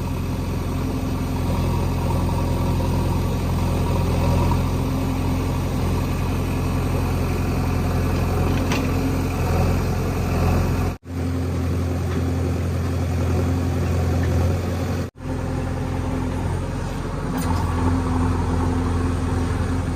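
Diesel engine of a JCB 3DX backhoe loader running steadily with a low hum, cut off for an instant twice midway.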